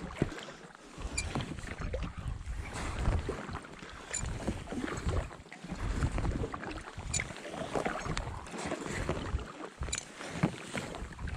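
Paddling a packraft: the paddle blades dip and splash about once a second, over a patchy low wind rumble on the microphone.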